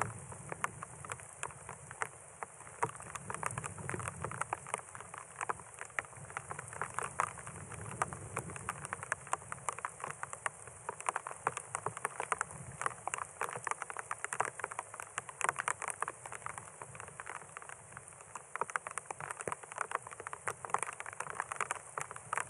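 Steady desert rain falling, with many separate drops striking close by in a dense, irregular stream.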